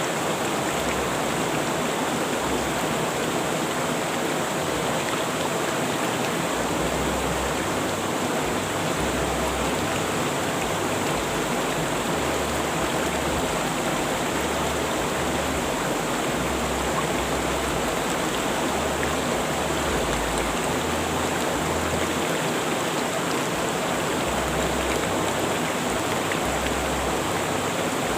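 River water rushing steadily over rocks, a continuous even roar of flowing water.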